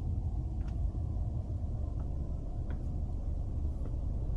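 Steady low road and engine rumble inside the cabin of a moving BMW 428, with a few faint ticks.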